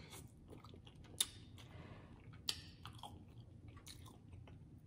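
A person chewing food close to the microphone, with sharp wet mouth clicks and smacks, the strongest about a second in, halfway through and near the end.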